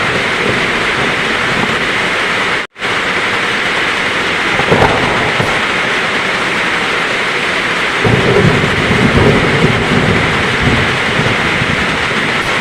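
Heavy rain falling steadily, with low thunder rumbling in from about eight seconds in. A split-second dropout to silence comes a little before three seconds.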